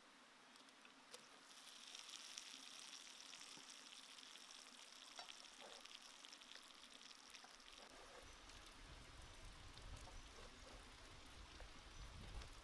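Faint sizzling and crackling of chili peppers and lemongrass frying in hot oil in a pan, with many tiny pops. From about halfway a low rumble joins in.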